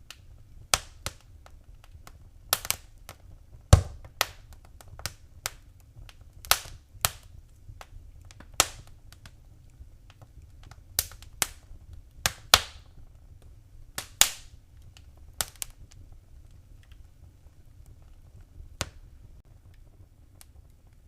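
Wood fire crackling in a fireplace: irregular sharp pops and snaps over a low, steady rumble of flame. The pops come thick for most of the stretch and thin out to a single snap near the end.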